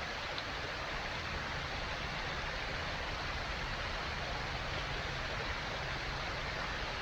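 Steady rushing noise, even and unbroken, with no pitch or rhythm.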